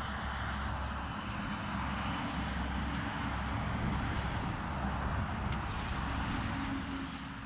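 Radio-controlled model aeroplane flying, its motor running with a steady drone.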